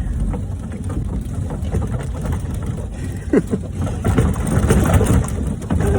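Velomobile on knobby bicycle tyres pushing slowly through heavy, wet snow: a steady, loud low rumble of the wheels and shell churning through the snow, with a few brief squeaks a few seconds in.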